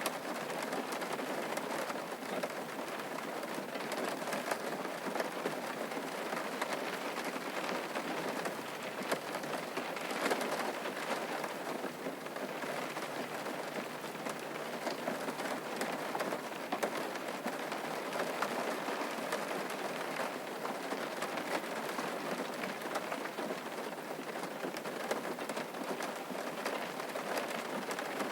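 Steady rain falling on a surface, a dense even patter with many separate drops ticking.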